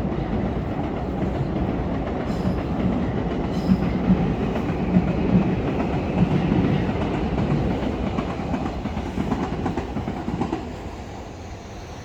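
A train passing close by, a steady rumble with its wheels clattering over the rail joints, falling away about ten and a half seconds in.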